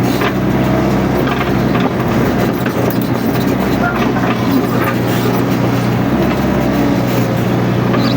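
Mini excavator's diesel engine running steadily at working speed, with scattered short clicks and knocks as the machine works.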